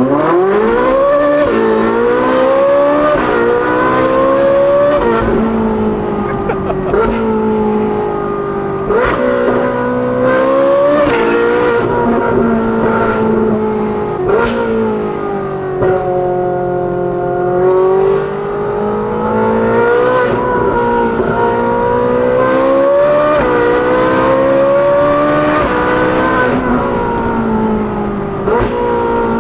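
Ferrari 458's naturally aspirated V8 through a titanium valved exhaust with free-flow front pipes, valves open, heard from inside the cabin. It pulls hard again and again, its pitch climbing and then dropping back at each gear change or lift, with a steadier cruise partway through.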